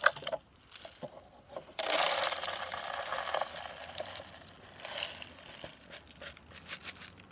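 Birdseed being poured into a plastic soda-bottle bird feeder: a few clicks and rustles, then about two seconds in a sudden dense rattling hiss of seed that thins out into scattered ticks.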